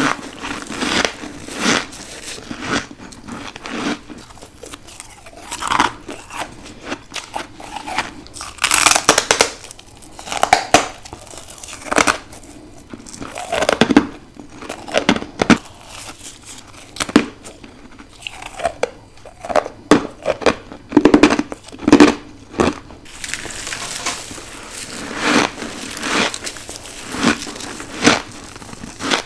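Close-miked biting and chewing of deep-freezer humidifier frost: irregular crisp crunches, with a rapid run of loud bites and crackles a little past the middle.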